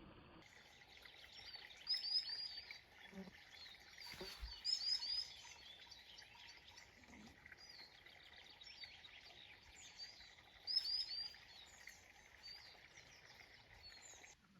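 Small songbirds singing outdoors: a chorus of chirps, with louder phrases of quick, falling notes about two, five and eleven seconds in. There is a brief low thump just after four seconds.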